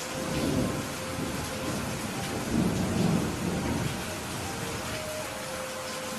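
Steady rain with thunder rolling twice: a low rumble just after the start and a louder one about halfway through.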